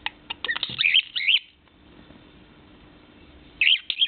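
Budgerigar chirping and warbling in quick rising notes for about a second and a half. A pause follows, then another short burst of chirps near the end.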